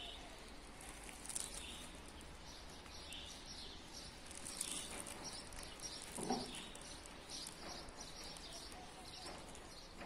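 Small songbirds chirping in a garden: many short, high chirps and tweets, coming thicker in the second half. A dull low thump about six seconds in is the loudest moment.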